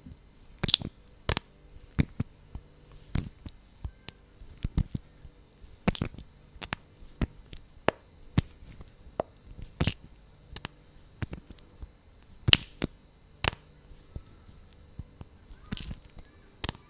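Close-up wet mouth sounds: lip smacks and clicks of glossed lips parting, irregular, with a few much sharper than the rest.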